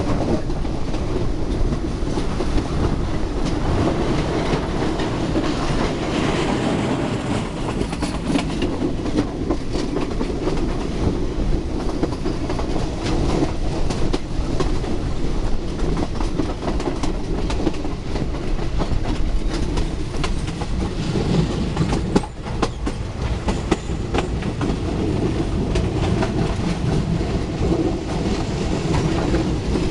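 Moving train heard from an open carriage door: a steady running rumble, with the wheels clicking and clattering over the rail joints all through.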